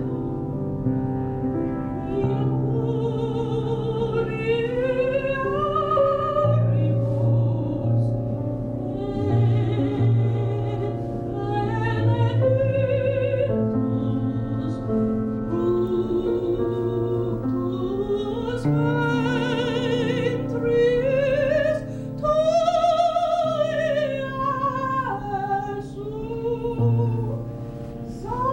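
Operatic singing with wide vibrato on long held notes, over sustained instrumental accompaniment.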